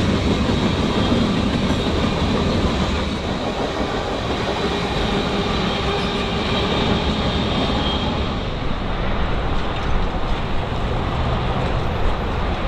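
Train cars rolling past on the track, wheels clacking steadily over the rail joints, with a faint high wheel squeal partway through.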